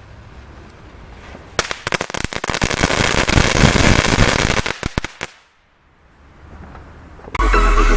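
Small category 1 firecrackers going off in a rapid string of sharp cracks and pops for about three and a half seconds, dying away abruptly. Electronic dance music starts near the end.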